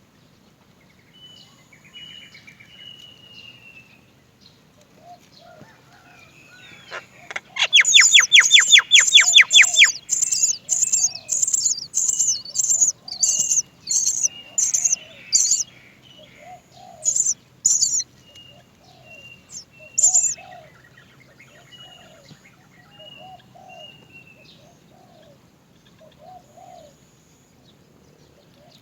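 Great myna chicks begging: after a quiet stretch, loud harsh high cries come in a fast run of about two a second for some eight seconds, at first over a rapid rattle, then a few more single cries. Other birds call faintly throughout.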